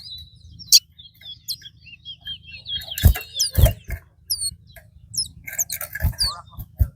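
Caged songbirds in a singing contest, with a run of quick chirps and warbled whistles and a few dull thumps.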